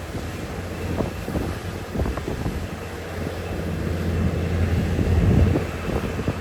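Heavy earthmoving machinery's diesel engine running, with scattered clanks and knocks. It swells louder about five seconds in, then drops back.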